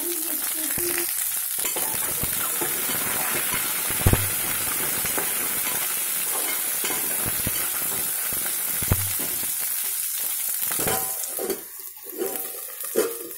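Ivy gourd and onion sizzling in hot oil in an aluminium pot, stirred with a metal spatula that knocks against the pot a few times. Near the end a steel plate lid goes on and the sizzle turns quieter and uneven.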